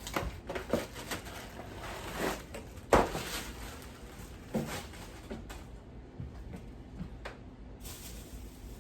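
Grocery packages being handled and set into a refrigerator, giving a series of knocks and bumps with the loudest about three seconds in.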